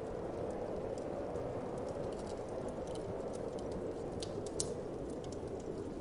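Wood fire crackling, with irregular sharp pops and snaps, the loudest about three-quarters of the way through, over a steady low rush of winter wind.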